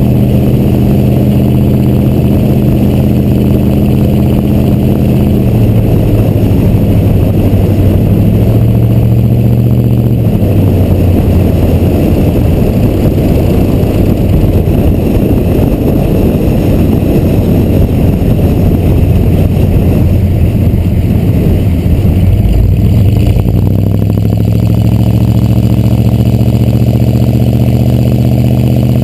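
6.2 L Detroit diesel V8 of a 1986 Chevrolet C30 dually, running loud through its straight-piped exhaust stacks. It holds a steady note for about ten seconds, turns rougher as it works harder until about 23 seconds in, then settles back to a steady idle.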